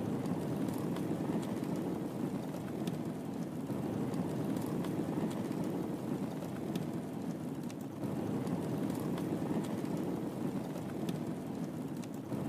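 Wood fire burning in a fireplace: a steady low rush of flames with small, sharp crackles and pops at irregular moments.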